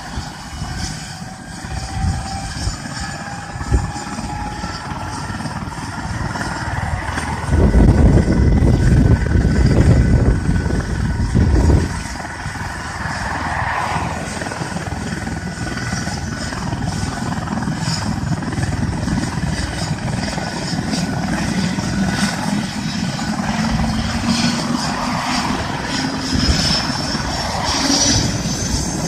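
Air ambulance helicopter starting up on the ground: a turbine whine slowly rising in pitch as the engines spool up and the rotors spin up. Gusts of wind hit the microphone with a loud low rumble between about 7 and 12 seconds in.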